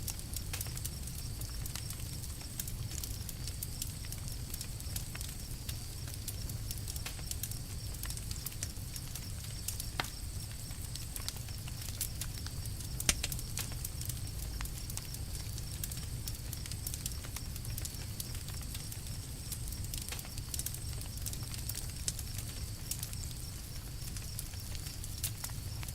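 Campfire crackling: a steady low rumble of burning wood with frequent small sharp pops and snaps scattered throughout, one slightly louder snap about thirteen seconds in.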